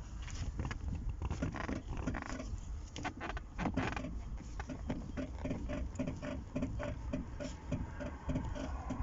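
Rear suspension of a Zotye T600 squeaking in quick short strokes, at first irregular with clicks and knocks, then settling to a steady rhythm of about three squeaks a second. The mechanic attributes the squeak to the headlight-levelling ride-height sensor rather than to the suspension bushings.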